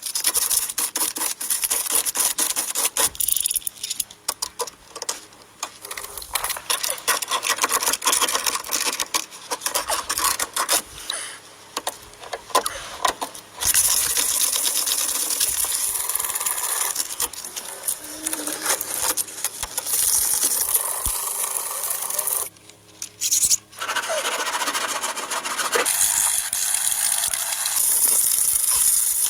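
Sanding with 400-grit sandpaper on a car body panel: continuous rapid scraping and rasping that stops briefly several times.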